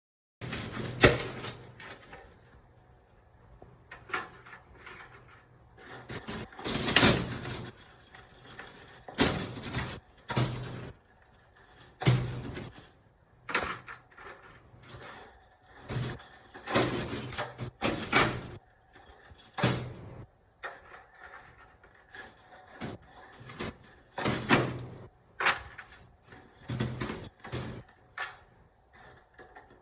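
Irregular knocks, clicks and clatter of parts and hand tools being handled at a workbench, coming every second or so with quieter scraping in between.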